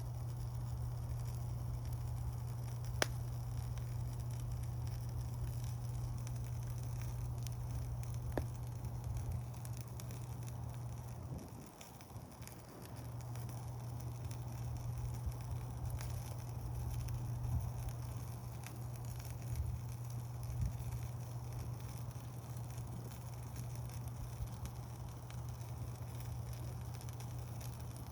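Wood campfire burning, with scattered sharp pops and crackles from the burning wood over a steady low rumble that briefly drops away about twelve seconds in.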